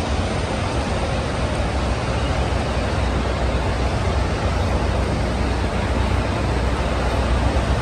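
Steady, even rumble and hiss beside a standing passenger train, its onboard equipment running.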